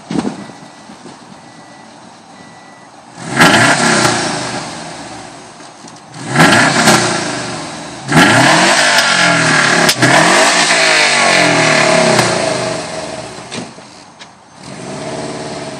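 Exhaust of a 2007 Subaru Impreza WRX STI with its 2.5-litre turbocharged flat-four and a Perrin catted downpipe, idling and then revved three times, the third rev held for several seconds before dropping back to idle.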